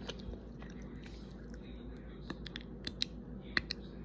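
A piece of chocolate being bitten and chewed close to the microphone, with a few sharp crunchy clicks in the second half.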